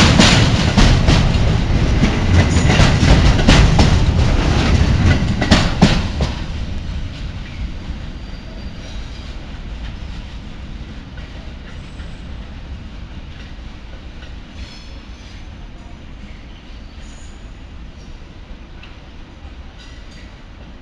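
A train passing close by at speed, its wheels clicking over the rail joints; about six seconds in the noise drops away and fades to a low rumble as the train recedes.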